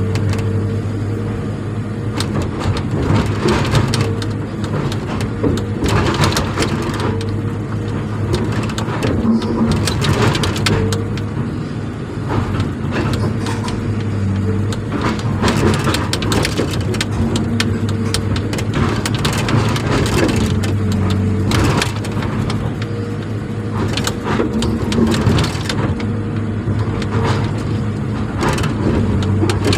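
An engine runs steadily at a constant speed, with irregular crunching and knocking sounds scattered over it.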